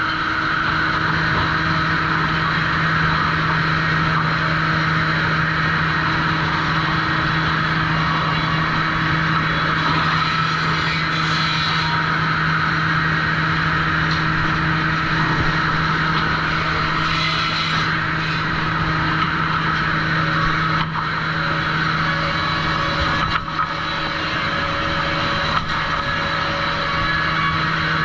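Sawmill trim saw machinery running steadily: a constant low motor hum under a higher whine. Two brief hissier stretches come about eleven and seventeen seconds in, and a few small knocks follow near the end.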